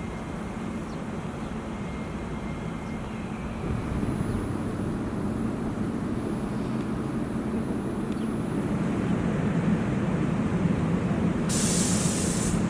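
CAF Urbos AXL tram running, a steady low rumble that gets louder about four seconds in and keeps building. A short burst of hissing comes about a second before the end.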